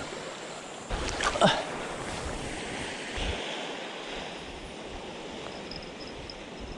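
Waves washing on a beach with wind buffeting the microphone, and a brief swishing sweep about a second and a half in. Faint high chirps come near the end.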